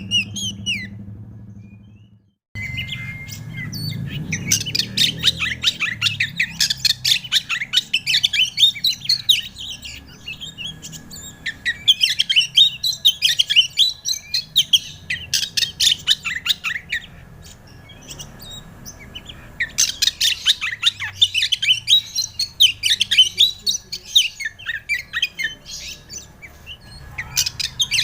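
Oriental magpie-robin (kacer) singing a long, varied song of rapid chirps and whistles in two long spells with a quieter stretch between them, after a brief drop-out about two seconds in.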